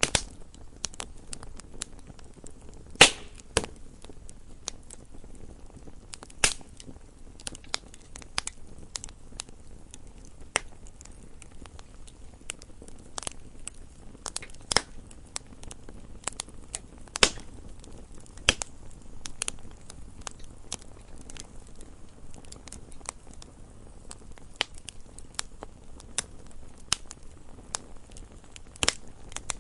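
Wood fire burning in a fireplace: a low steady hiss with irregular sharp crackles and pops, the loudest pop about three seconds in.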